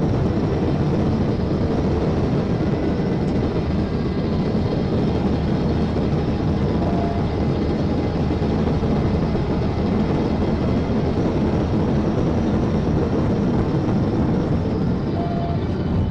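Loud, steady rush of wind and road noise from a vehicle travelling at very high speed.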